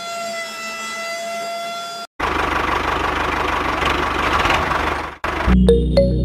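Small electric motor of a homemade mini tractor and flour-mill model: first a steady, high-pitched motor whine. After a sudden cut about two seconds in, a louder, rougher mechanical running noise with a low rumble follows. Background music starts near the end.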